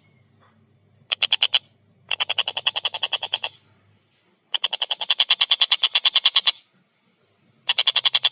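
Tengkek buto kingfisher calling in rapid chattering series, about a dozen sharp notes a second. There are four bursts: a short one about a second in, then three longer ones with brief pauses between them, the last starting near the end.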